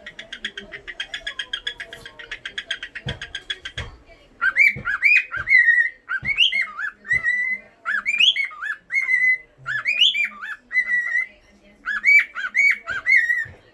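Cockatiel vocalising: a fast, even run of short chirps, about seven a second, for roughly four seconds, then a whistled tune of rising and falling notes repeated in short phrases.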